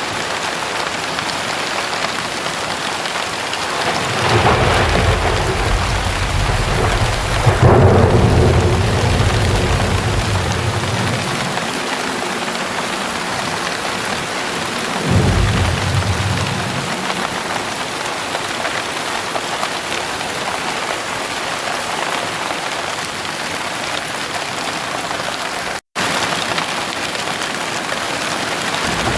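Heavy rain pouring steadily, with a long rumble of thunder starting about four seconds in and swelling before it fades, and a shorter thunderclap about halfway through. The sound cuts out for a split second near the end.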